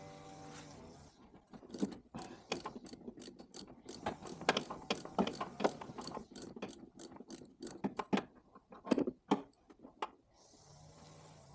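Mechanical ratcheting clicks in quick, uneven strokes, about two to three a second, starting about a second in and stopping near the end.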